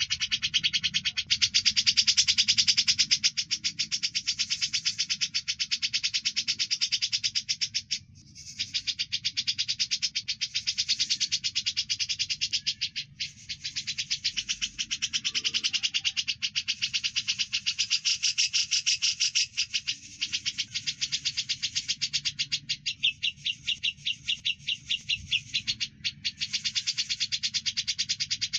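Dense, rapid chirping chatter from a birdsong masteran track mixing cucak jenggot (grey-cheeked bulbul) and burung gereja (Eurasian tree sparrow) calls, with a few brief breaks.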